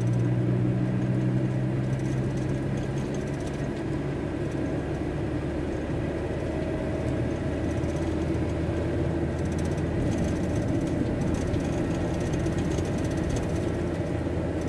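VW T4 Transporter diesel van driving, heard from inside the cab: a steady low engine hum that fades about three or four seconds in, then steady road and engine noise.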